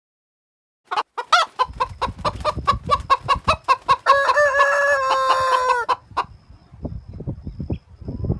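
Chickens clucking in quick repeated notes, then a rooster crowing in one long held call about four seconds in, followed by quieter clucks.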